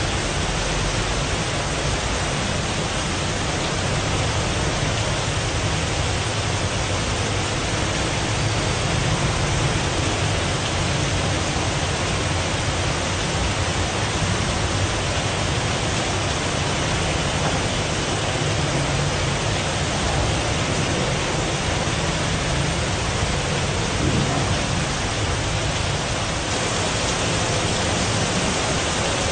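Heavy rain pouring down in a steady, even hiss with a low rumble underneath.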